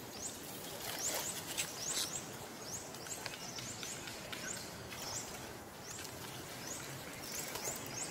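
Short, high rising chirps from small birds, about two a second and irregular, over a soft outdoor hiss, with a few faint clicks.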